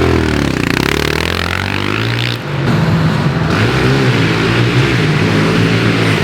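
Pit bike engine revving up and down as it is ridden hard on a lap. It briefly drops off the throttle about two and a half seconds in, then pulls back up and holds at high revs.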